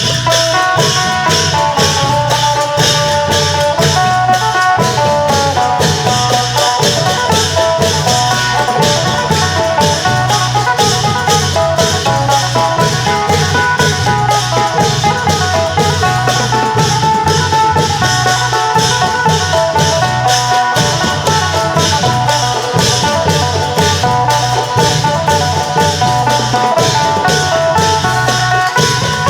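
Isan long-drum (klong yao) band playing with a phin: a plucked-lute melody over a steady long-drum beat and fast, even percussion strokes.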